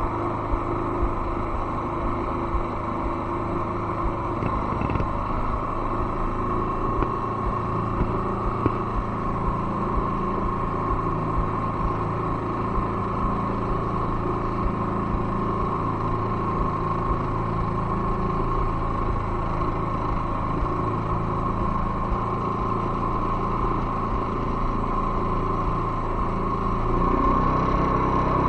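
Boat motor running steadily as the boat moves off slowly along the river, getting a little louder near the end.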